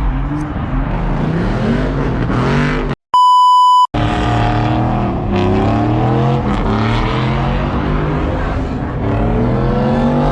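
Car engines revving up and down, pitch climbing and falling again and again. About three seconds in, a steady electronic censor beep cuts in briefly, with the sound dropping out just before and after it.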